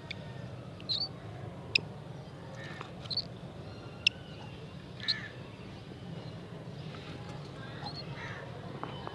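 Cockatiels giving short, harsh calls, about seven of them at irregular intervals, over a steady low hum.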